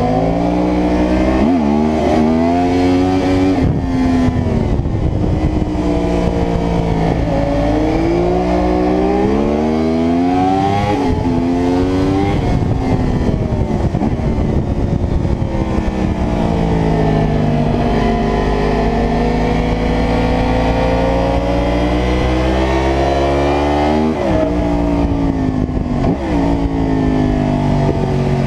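Yamaha R1's crossplane inline-four running hard on track: the engine pitch climbs through the gears, dropping back at each upshift, then falls away under braking before climbing again. Wind rush runs under the engine throughout.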